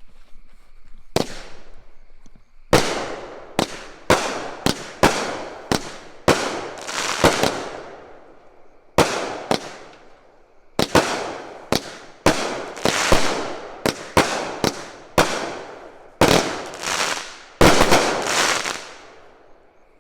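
A 16-shot consumer fireworks cake firing: a long run of sharp bangs in quick succession, each trailing off in a long echo, with a short lull about eight seconds in.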